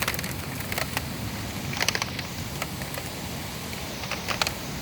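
Rain falling steadily in a thunderstorm, with scattered sharp drips and taps.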